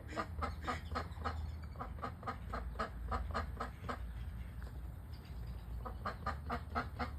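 Ducks quacking in a quick run of short, evenly spaced calls, about four a second. The calls stop for about two seconds, then start again near the end.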